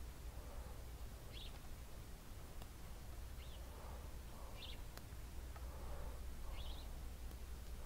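Faint background with a small bird chirping about five times, short high notes spaced a second or two apart, over a steady low hum, with a couple of small clicks.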